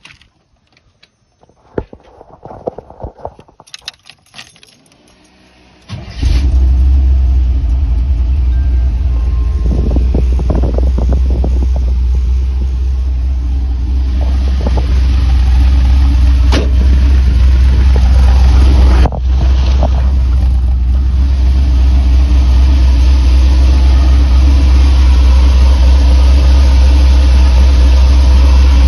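A few clicks and rattles, then about six seconds in the 1985 Chevy van's engine starts and keeps running steadily with a deep rumble through its newly installed, rewelded dual exhaust.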